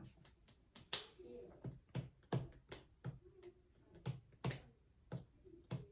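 Playing cards being handled and laid down on a table: a run of sharp taps and clicks, irregular at about two a second, starting about a second in, with a short papery slide after the first tap.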